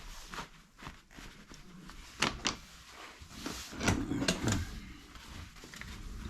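Magnets being set in place to hold a soot sheet over a fireplace: a run of sharp clicks and knocks as they snap on, loudest about two seconds in and again around four seconds in.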